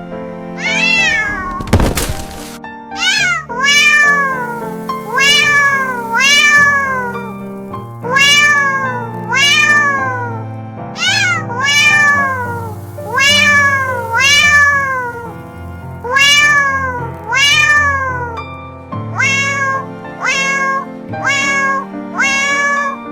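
Cat meows repeated about once a second, evenly spaced and in time with background music, with a single sharp knock about two seconds in.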